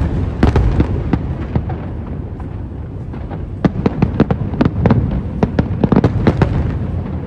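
Fireworks display: many sharp bangs and crackles go off in quick, irregular clusters over a continuous low rumble. There is a thick flurry in the first second and a denser one from about the middle to near the end, with fewer bangs between them.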